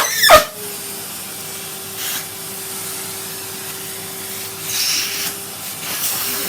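Numatic Henry canister vacuum cleaner running, with a steady motor hum under a rushing hiss of suction. A loud scrape comes right at the start, and brief louder rushes of sucking come about two seconds in and again around five seconds as the nozzle rubs over something.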